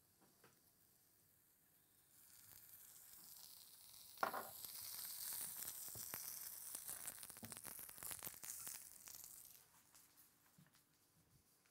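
Eggplant slices sizzling in hot olive oil in a stainless-steel frying pan. The sizzle starts about two seconds in, with a sudden louder burst about four seconds in. It swells, then dies away around ten seconds in.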